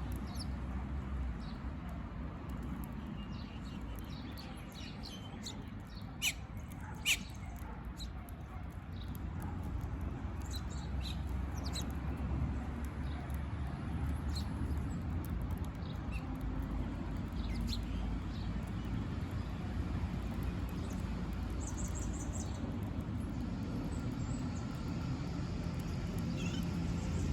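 Wild birds chirping and calling in short scattered notes over a steady low rumble, with two sharp clicks about six and seven seconds in.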